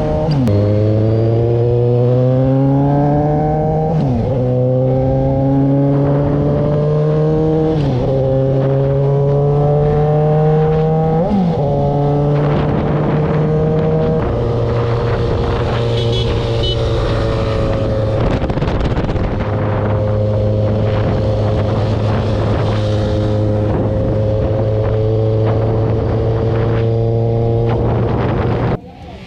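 Motorcycle engine accelerating through the gears: the pitch climbs in each gear and drops sharply at several upshifts over the first dozen seconds, then holds a fairly steady cruise.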